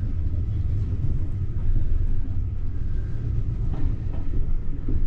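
Steam-hauled railway carriage running along the track, heard from inside the coach: a steady low rumble.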